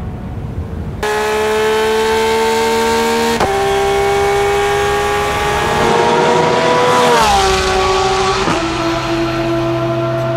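Porsche 911 GT3 R rennsport's naturally aspirated flat-six racing engine at very high revs, cutting in loudly about a second in. Its pitch climbs steadily and then drops sharply three times as it shifts up through the gears.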